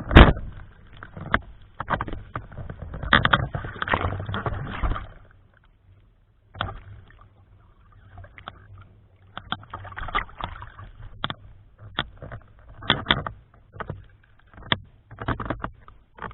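Strong gusting typhoon wind buffeting the microphone in irregular bursts, cutting out briefly about five seconds in before the gusts return.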